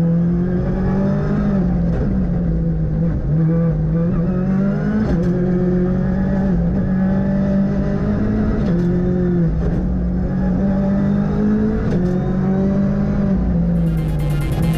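Onboard sound of a Ford Fiesta R5 rally car's turbocharged 1.6-litre four-cylinder engine under hard driving, its revs climbing and dropping again every second or two through gear changes and lifts. Electronic music starts near the end.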